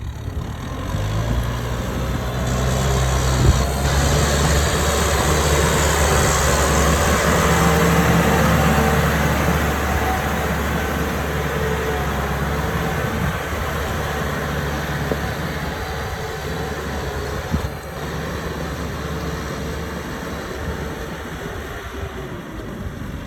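Tractor engine running steadily with a low drone and a broad hiss over it, growing louder over the first few seconds and then slowly fading, with a short knock about three and a half seconds in.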